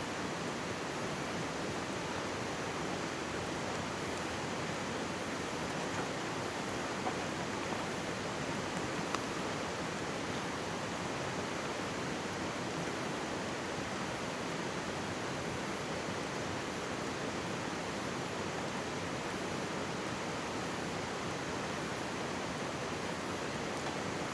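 Mountain stream rushing close by, a steady, even wash of water, with a few faint campfire crackles between about six and nine seconds in.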